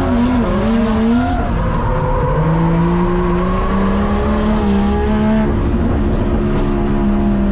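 Drift car's engine revving up and down, then held at steady revs for several seconds while the car drifts.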